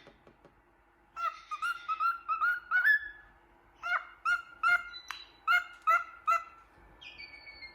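Cockatiel chirping in two quick runs of short calls with a brief pause between them, then a long falling whistle near the end.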